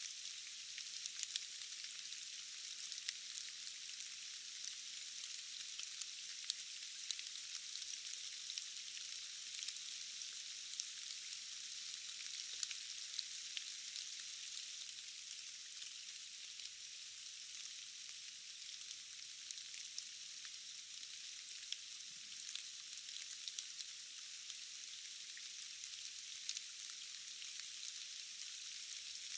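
Steady rain falling in a forest: an even, high hiss with almost no low end, dotted throughout with sharp ticks of individual drops.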